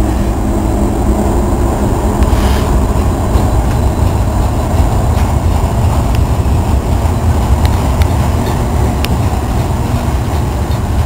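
Freight train's diesel locomotives passing under power, their engines giving a heavy steady rumble as they pull away, followed by tank cars rolling by on the rails with a few faint clicks.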